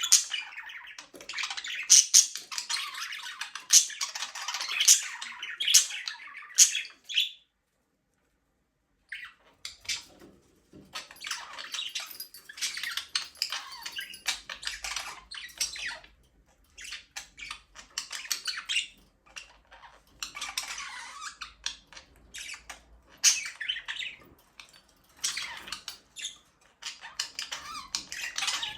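A flock of budgerigars chattering and chirping, a dense warbling din with many sharp squawks. About a quarter of the way in, the sound cuts out completely for under two seconds, then the chatter resumes.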